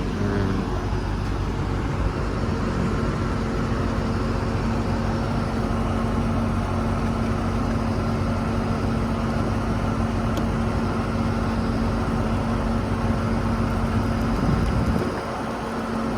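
1992 Chevrolet Corvette's V8 idling smoothly, a steady even hum with no odd noises. Near the end it briefly gets louder, then the steady tone cuts out.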